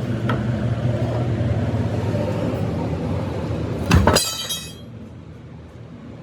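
A heavy engine runs steadily, then a single loud metallic clang rings out about four seconds in. After the clang the engine sound drops away to a much quieter background.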